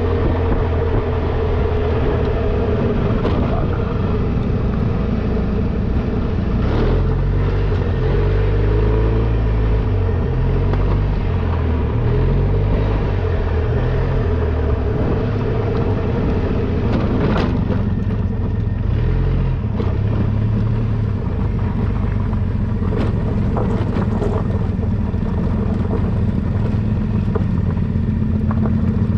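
Motorcycle engine running while riding. Its pitch rises and falls several times through the middle of the stretch as it revs and eases off, over a steady rush of noise.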